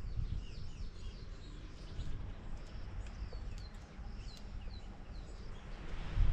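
Wild birds chirping, with many short, quick, falling calls, over a low rumble.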